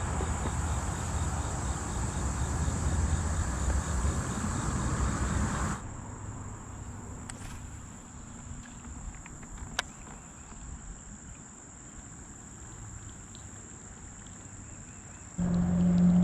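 Insects chirring steadily in a high, unbroken tone. For the first six seconds a louder rushing noise lies under it and then stops abruptly; near the end a loud low hum starts suddenly.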